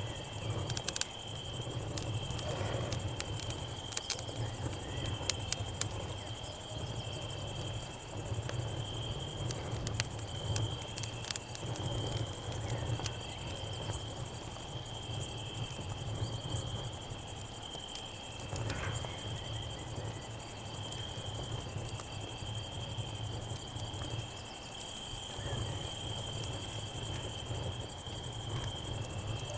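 Night chorus of cicadas and crickets: a steady high shrill hiss with a continuous cricket trill below it. Sparse small crackles of a campfire come through, over a low rumble. The insect hiss swells slightly near the end.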